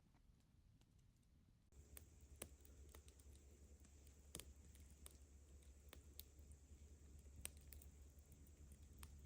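Campfire crackling: sharp, irregular pops and clicks over a low steady rumble. It starts abruptly about two seconds in.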